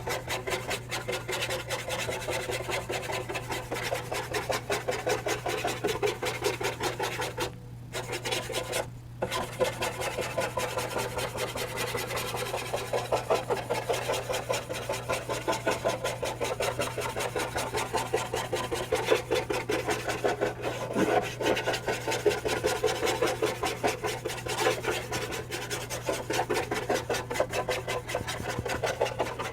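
Small flat paint brush scrubbing charcoal dust into charcoal paper in quick, rhythmic back-and-forth strokes, blending a background; the strokes stop briefly twice about eight and nine seconds in.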